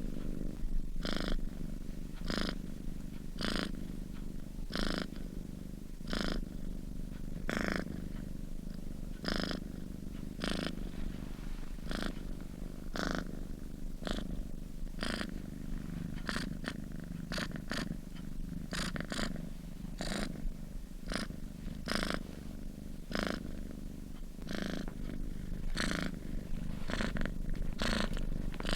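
Sleeping cat purring: a steady low purr that swells with a brief breathy pulse about once every second or so, in time with its breathing.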